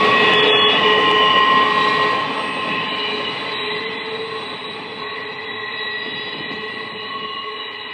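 Passenger train cars rolling by, their wheels squealing in a steady high-pitched ring over the rumble of the wheels. The sound fades gradually as the train moves away.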